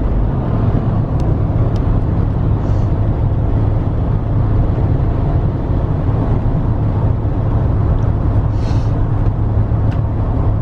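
Steady road and engine noise of a moving car heard from inside the cabin, a deep, even rumble.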